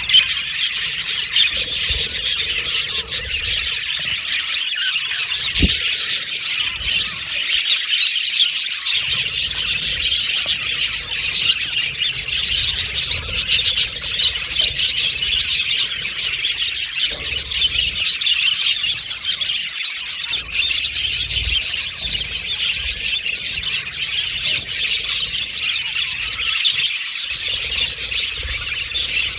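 A flock of budgerigars chattering without pause: many overlapping high chirps, warbles and squawks.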